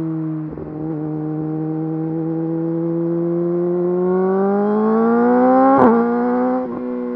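Yamaha YZF-R6 inline-four through an Akrapovič full exhaust system, running steadily and then rising in pitch as the bike accelerates. A sharp crack comes about six seconds in, after which the engine note eases off a little.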